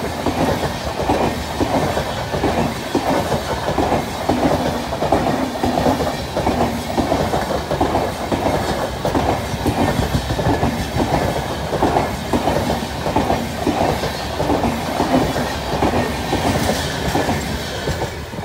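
Red-and-grey LHB passenger coaches running past close by, their wheels clattering over the rail joints in a steady, rhythmic clickety-clack. The sound begins to fade near the end as the train draws away.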